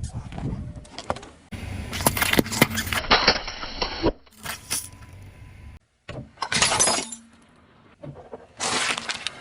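Brittle items cracking and crunching as a car tyre rolls over them, in several separate short bursts of crackling.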